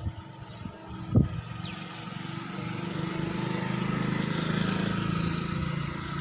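Escort Powertrac 445 DS Plus tractor's diesel engine running, growing louder over a few seconds. There is one sharp knock about a second in.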